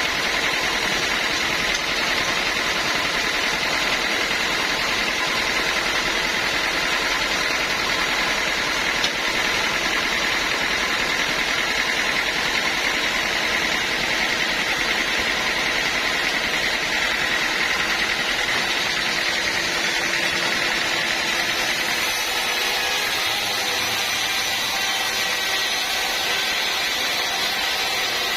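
Bandsaw sawmill running steadily, a continuous mechanical drone with a steady high tone through it.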